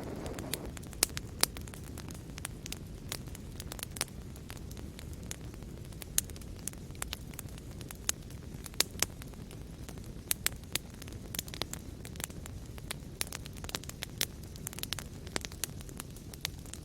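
Fire crackling in a fireplace: a steady low rush of flames under frequent, irregular sharp pops and snaps, a few of them louder than the rest.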